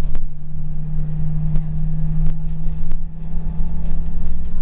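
Scania L94UB city bus running, its diesel engine and ZF automatic drivetrain giving a steady drone on one held note over a heavy low rumble, with a few light rattling clicks.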